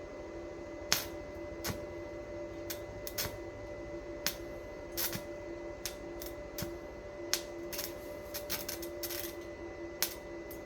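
Irregular sharp clicks and light taps, over a steady electrical hum.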